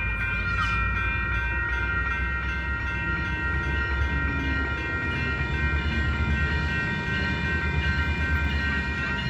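Metrolink MP36PH-3C diesel locomotive and its commuter train running by, a steady low rumble of engine and wheels. Several steady high ringing tones sound over it the whole time.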